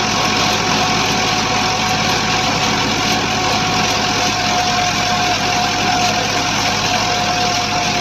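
Massey Ferguson 265 tractor's diesel engine running steadily under load, driving a thresher, with a constant high whine over the engine's low hum.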